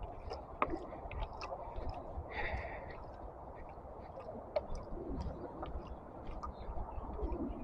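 Low walking and handling noise from an action camera in a waterproof case: irregular small clicks and rubbing over a low rumble. A brief higher-pitched sound comes about two and a half seconds in.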